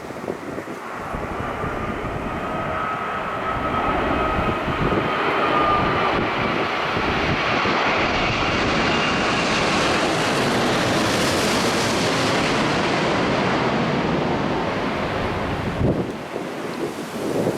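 Boeing 787-8 airliner's twin Rolls-Royce Trent 1000 turbofans passing close on landing. The jet noise grows louder with a whining tone, peaks about two-thirds of the way through as the plane goes by, then eases. Wind buffets the microphone.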